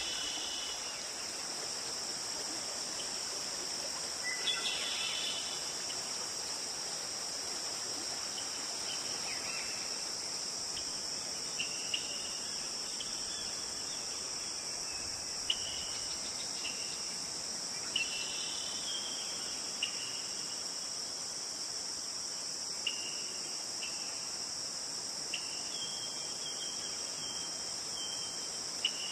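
A steady high-pitched insect chorus, typical of crickets, over the even rush of a forest stream, with short bird chirps every few seconds and a run of repeated notes near the end.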